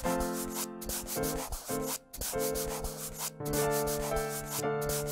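Felt-tip marker scribbling on paper in fast back-and-forth strokes while colouring in, over a simple tune of held notes.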